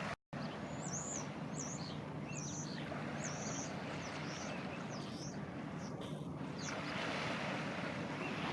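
Waves washing on the shore over a steady low drone, with small birds giving quick high chirps through the first few seconds and the surf swelling near the end. The sound drops out for a split second right at the start.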